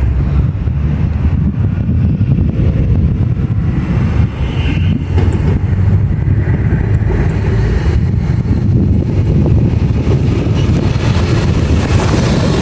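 A train running close by, a loud steady low rumble, with brighter wheel-on-rail noise building near the end.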